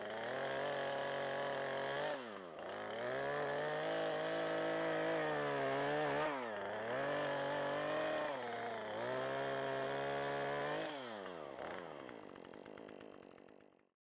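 Gas chainsaw running at high revs while cutting downed tree limbs. The revs dip and climb back twice, then fall away and run lower near the end before the sound cuts off.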